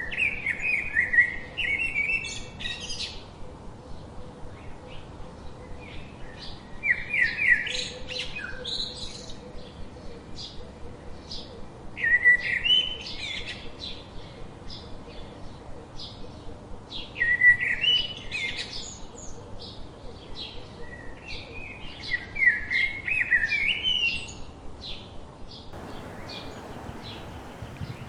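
A songbird singing the same short, quick song of slurred whistled notes over and over, one song about every five seconds, with pauses between.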